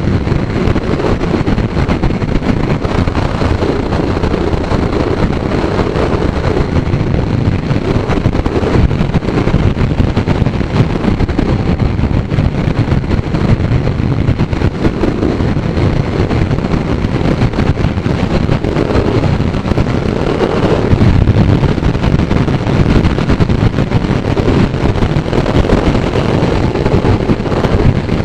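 Motorcycle riding at speed with heavy wind buffeting the microphone, the engine running steadily underneath and revving briefly about two-thirds of the way through.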